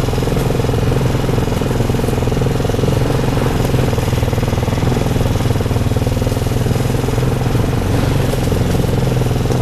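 Small off-road vehicle's engine running steadily at low, even speed, with no revving.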